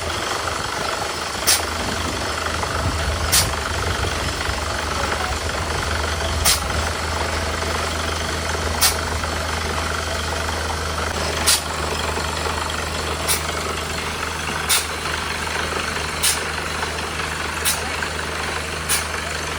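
Engine of a mini borewell drilling rig running steadily with a low hum. Sharp clicks cut through it every one to three seconds.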